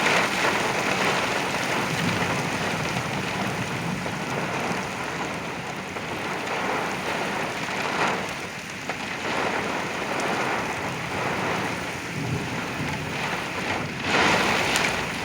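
Heavy thunderstorm rain and strong wind gusts of a derecho, heard from inside a truck. It is a dense, steady rush that swells louder with the gusts, about halfway through and again near the end.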